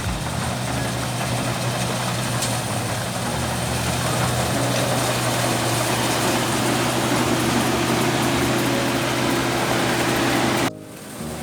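Kubota combine rice harvester's engine running steadily, a constant low hum under a wash of machinery noise. It drops off suddenly near the end.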